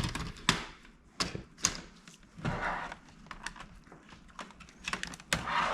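Plastic pry knife worked into the seam of an HP Pavilion G-series laptop's plastic case: a series of sharp clicks and snaps as the case clips let go, with two short stretches of scraping about two and a half seconds in and near the end.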